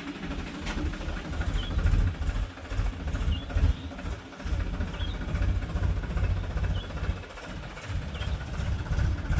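Diesel tractor engine running with a low rumble that rises and falls, and a faint short high chirp about every second and a half.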